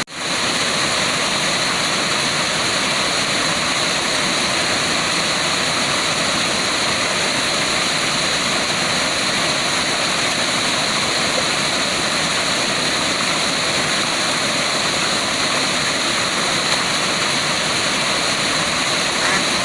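Waterfall rushing: a steady, even roar of falling water that drops out for an instant at the very start, then runs on unchanged.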